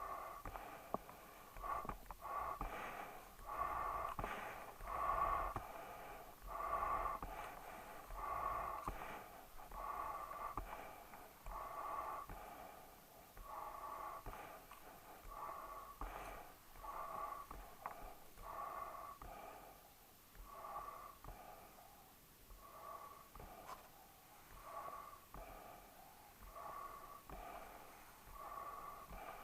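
Dog breathing noisily through its nose, a wheezy, snore-like sound repeating about every one and a half to two seconds.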